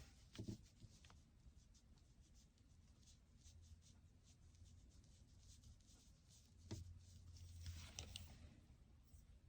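Faint, scratchy strokes on paper from painting, with a soft knock about half a second in and another near seven seconds.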